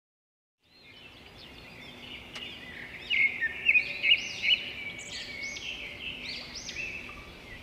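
Several birds chirping and calling in quick, high, repeated notes over a faint steady outdoor background, fading in about a second in and busiest around the middle.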